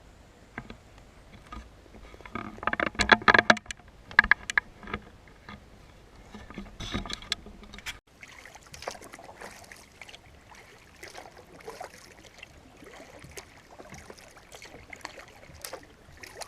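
Paddling a cedar strip canoe: water sounds from the paddle strokes, with a burst of sharp knocks and clatter between about two and four seconds in and another near seven seconds. After a sudden break halfway through, light scattered splashes and drips.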